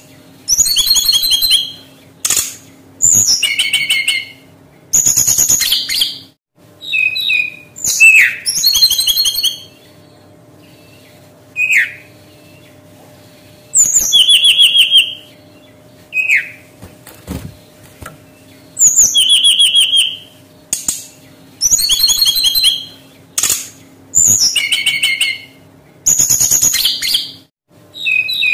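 Brown-chested jungle flycatcher singing: high, rapid trilling phrases of about a second each, repeated with short pauses, with a few single falling notes in between.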